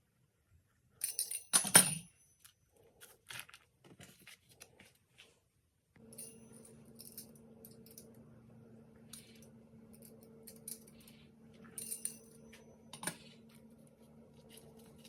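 Kitchen utensils clinking and tapping, loudest in a cluster of clinks about two seconds in. About six seconds in, a steady low hum starts and continues under occasional light taps.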